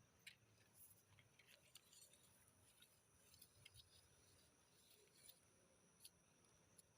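Near silence: a faint, steady, high insect drone, with scattered small clicks and rustles of handling.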